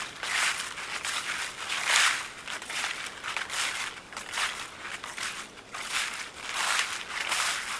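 Footsteps crunching through dry fallen leaves on a forest trail, a steady walking rhythm of crackly crunches about once a second.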